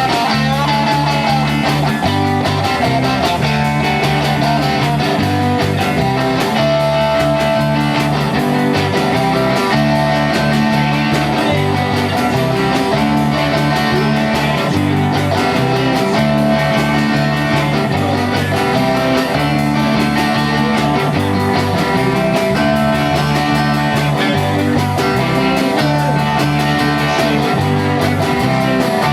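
Rock band playing an instrumental passage with guitar to the fore, steady in loudness, low notes changing underneath.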